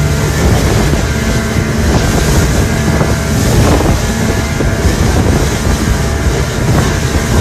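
A motor running steadily under heavy wind buffeting the microphone, with a low, even engine tone beneath the rushing noise.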